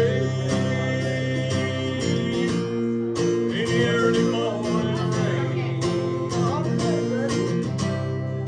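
Acoustic guitar strumming a steady country-folk accompaniment in an instrumental passage of the song.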